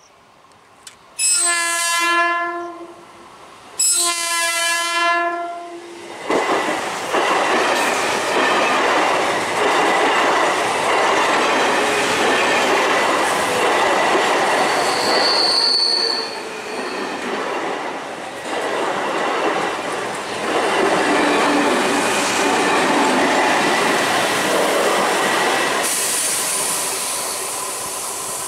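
A new Alstom electric multiple unit train sounds two long horn blasts, then runs past at speed, its coaches rolling by loudly over the rails, with a brief high squeal about midway. Near the end the noise drops to a quieter hiss.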